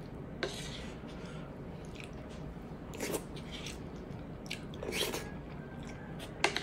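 Close-miked eating sounds: chewing and lip smacking on tender braised pork hock, with a few short, sharp wet smacks about half a second, three and five seconds in, and small clicks of a spoon against the dish.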